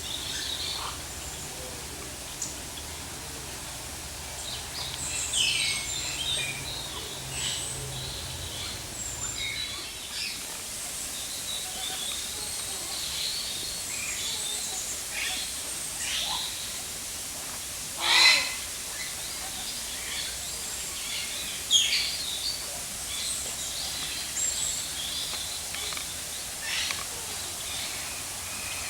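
Aviary birds chirping and twittering: many short, high calls overlapping, with one louder call about two-thirds of the way through and a sharp click shortly after.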